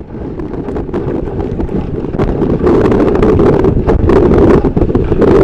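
Strong wind buffeting the microphone aboard a sailboat in heavy sea: a loud, steady low noise that builds over the first two seconds and then holds.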